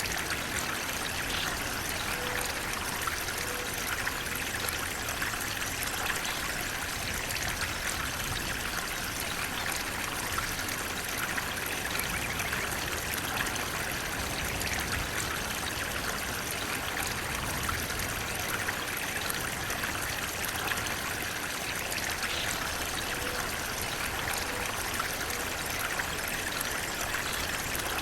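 Water flowing steadily, a continuous rushing and trickling with no breaks, like a stream running over rocks.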